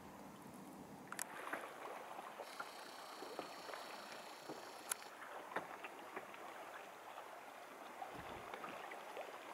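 Kayak paddles dipping into calm lake water, with small splashes, drips and water lapping against the hulls. A few sharper ticks stand out, and a faint high buzz runs for a couple of seconds in the middle.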